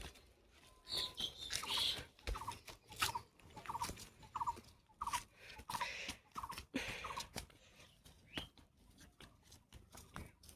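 A bird calling a short repeated note about ten times at an even pace, with scattered clicks and taps around it.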